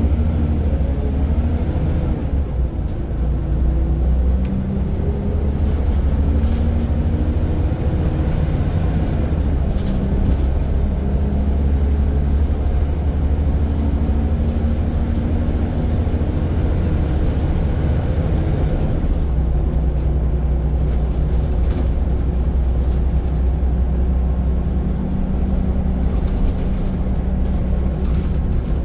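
Scania N94 single-decker bus engine heard from on board, working hard as the bus pulls away and accelerates, its pitch climbing and dropping back several times through the gear changes. There are a couple of short sharp knocks or hisses.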